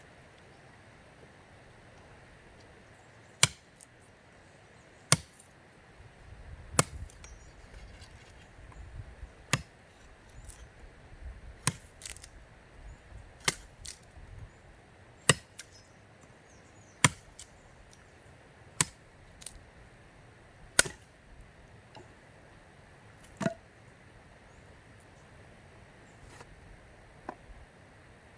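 Wood being chopped with a blade: about a dozen sharp strikes, roughly one every two seconds.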